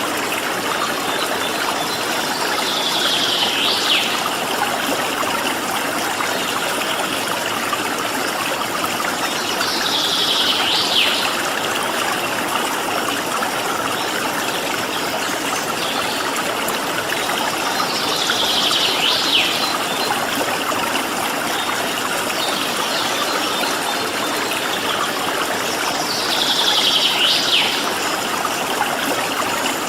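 Stream of flowing water running steadily, with a short high bird call repeated four times, about every eight seconds.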